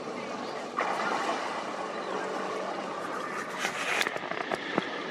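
Strong wind buffeting the microphone, a steady rushing noise that grows louder just under a second in. Several sharp knocks come between about three and a half and five seconds in.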